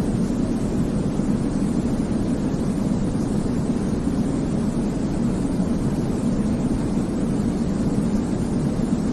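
Continuous white noise for baby sleep: a deep, even hiss with most of its weight low down, unchanging throughout.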